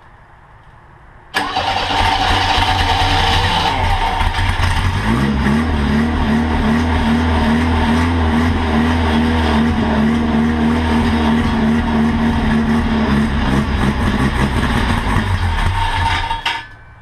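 Monster trike's engine, on a freshly rebuilt carburetor, starting about a second in and running rough before settling into steady running, then cutting off suddenly near the end.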